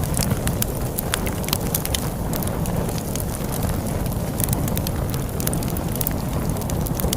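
Wood fire crackling with frequent sharp, irregular pops over a steady low rumble of wind.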